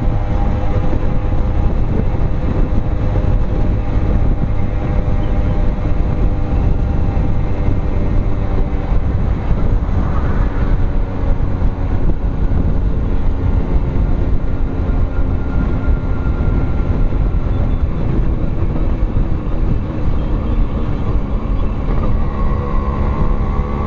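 100cc two-stroke motorcycle engine running steadily at speed under hard riding, over a heavy low rumble of wind and road. Near the end its pitch shifts as the revs change.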